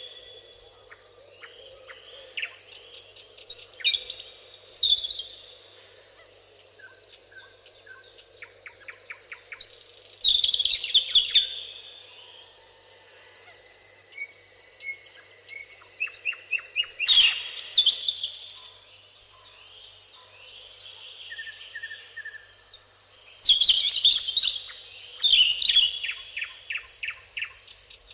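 Several songbirds singing and chirping, with short trills throughout and a few loud bursts of song, about three times. A steady high whine runs underneath.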